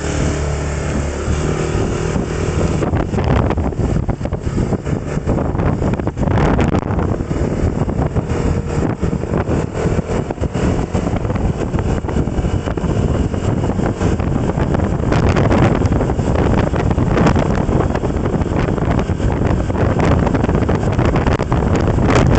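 A vehicle's engine running with a steady tone for the first few seconds, then wind rushing and buffeting over the microphone as the ride gets under way, growing louder toward the end.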